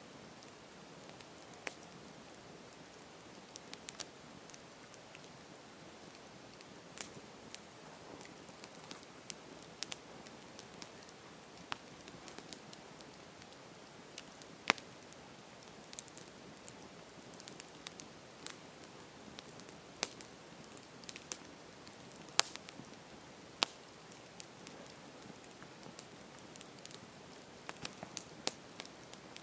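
Campfire burning, a steady low hiss with irregular crackles and pops of burning wood, a few sharp loud pops standing out.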